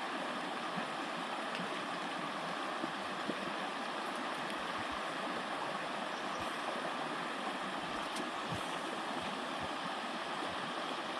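River water rushing: a steady, even rush with a few faint ticks.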